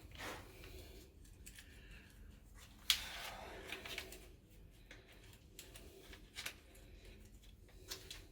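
Faint scattered clicks and rustling handling noises, with one sharper click about three seconds in.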